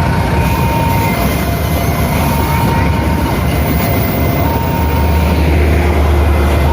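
A train rumbles past a level crossing, with the rumble growing heavier about five seconds in. Over it, the crossing's electronic warning alarm alternates between a higher and a lower tone, each held about a second.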